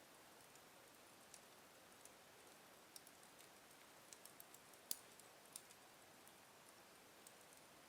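Wood fire in a fireplace crackling faintly: scattered soft pops and clicks over a low hiss, with a quick run of pops about four seconds in and the sharpest pop just after.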